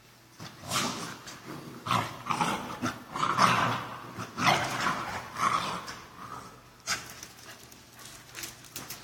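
Dogs vocalizing in rough play, with a run of irregular short growls and barks, busiest in the first two-thirds and quieter near the end.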